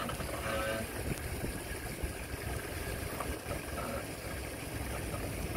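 Jeep Patriot engine running at idle as the 4x4 creeps down a rocky descent on the brakes, with wind buffeting the microphone.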